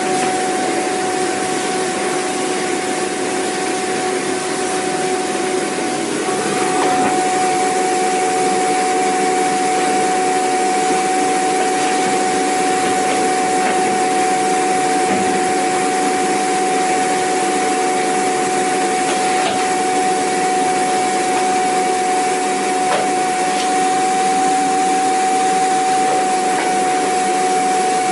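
Vacuum cleaner motor running steadily: a dense rushing of air with a steady high whine over it, getting slightly louder about six or seven seconds in.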